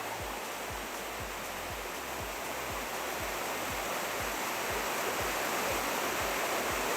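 Waterfall rushing, a steady even hiss of falling water, with faint regular low thuds about three times a second beneath it.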